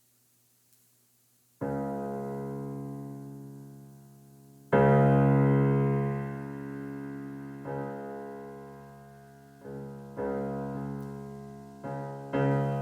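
Electronic keyboard with a piano sound playing low, full chords, each struck and left to ring and fade. The first chord comes in after about a second and a half of quiet, and a louder one follows about five seconds in. Several shorter, softer chords come near the end.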